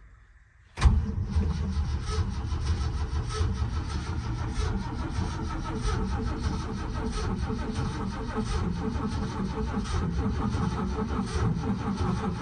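1975 Ford F-250 Highboy's engine cranking on the starter in extreme cold without catching: a cold no-start. The cranking begins suddenly about a second in and keeps a steady, regular pulse throughout.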